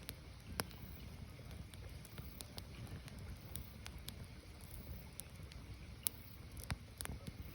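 Firewood burning: a low steady rumble of the fire with scattered sharp crackles and pops at irregular intervals, a dozen or so over the few seconds.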